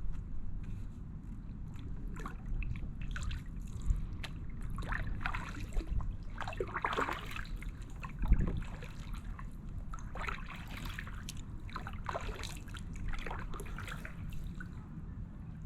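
Kayak paddle strokes through calm water: the blades dip and pull, with water splashing and trickling off them in irregular clusters every couple of seconds, over a steady low rumble.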